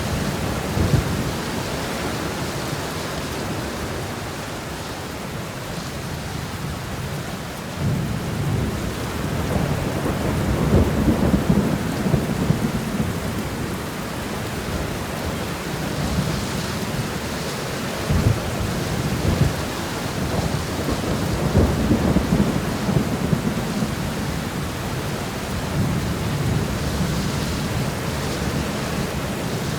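Steady rain shower falling, a continuous hiss, with low rumbling swells that rise and fade twice, a third of the way in and again past the middle.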